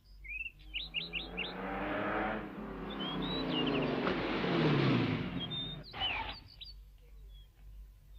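Birds chirping, then a car engine comes up and drives past, its pitch falling as it goes, stopping about six seconds in. Birds chirp again near the end.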